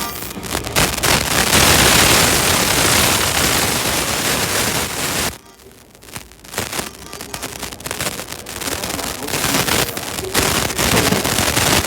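Electric commuter trains running through the station, a loud rushing rumble of wheels and motors that drops away suddenly about five seconds in, then returns choppy and uneven.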